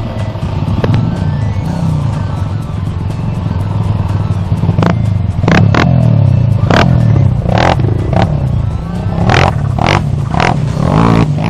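Dirt bike engines running and revving, their pitch rising and falling, with several short sharp noises in the second half.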